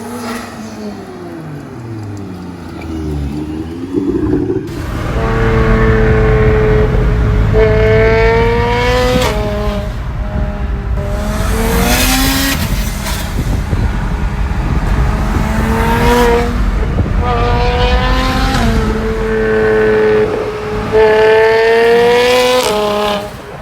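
BMW 335is N54 inline-six, converted to a single turbo, revving or accelerating hard. The engine note climbs and drops back about five times.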